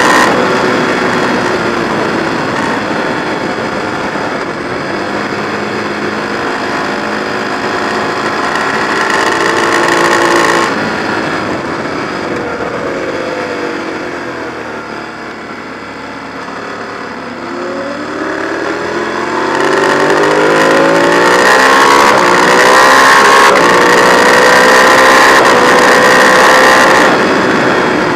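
Ducati 1098's L-twin engine, heard from on the bike, running hard at high speed. About ten seconds in the throttle closes and the engine note drops away, quietest a few seconds later. From about seventeen seconds it climbs in revs again and runs loud until it backs off near the end.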